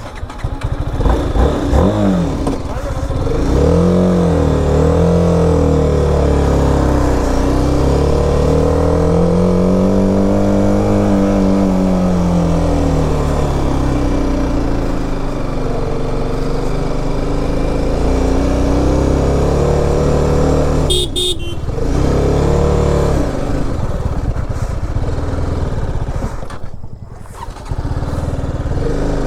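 BMW G 310 RR's single-cylinder engine running under load on a steep climb, its pitch rising and falling with the throttle. A short horn beep sounds about two-thirds of the way through, and the engine eases off briefly near the end.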